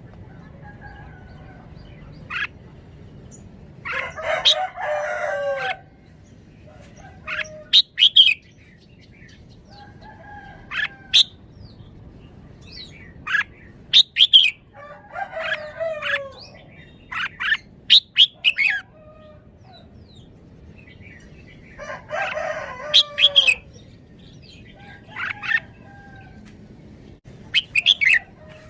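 Red-whiskered bulbul singing short, sharp phrases of chirping notes in bursts. A rooster crows three times alongside, each crow falling in pitch at the end.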